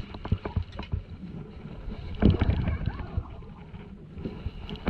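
Small fishing boat at sea: a low, steady rumble with irregular knocks and splashes, and a louder cluster of knocks about two seconds in.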